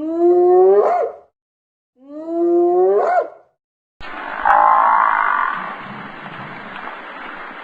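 An animal calling twice, each call drawn out for about a second and rising sharply in pitch at its end. About four seconds in, a steady hiss begins, with a short higher call in it.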